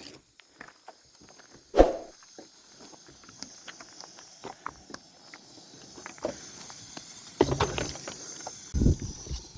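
Footsteps with scattered small knocks, a sharp louder knock about two seconds in, and heavier thuds and rustling near the end.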